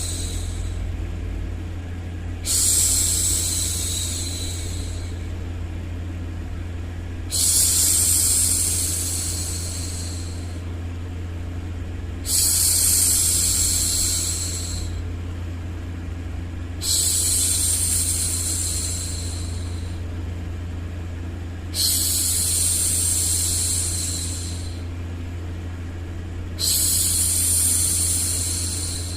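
A woman's hushing 'shhh', repeated slowly about every five seconds, each shush starting strong and fading over a couple of seconds, over a steady low hum.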